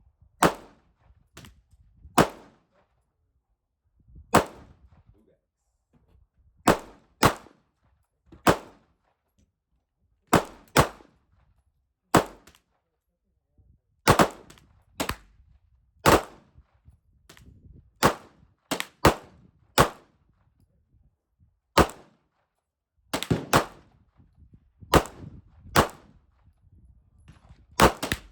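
Gunshots fired one at a time at irregular intervals, about two dozen sharp cracks, some in quick pairs and some fainter than others.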